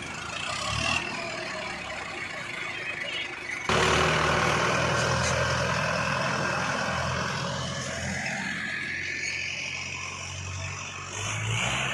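Diesel tractor engine running steadily, jumping abruptly louder about four seconds in.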